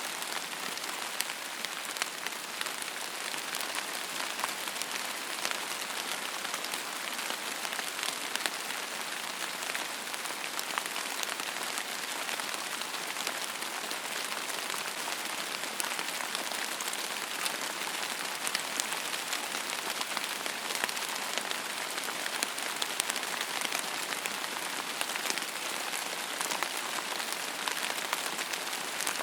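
Steady rain falling on a surface, a dense even hiss sprinkled with many small sharp drop ticks. It holds level throughout, with no thunder.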